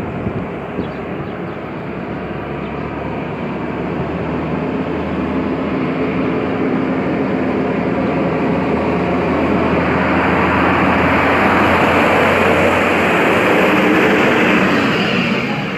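Motor vehicle engine and tyre noise, growing gradually louder as it draws near and staying loud through the second half.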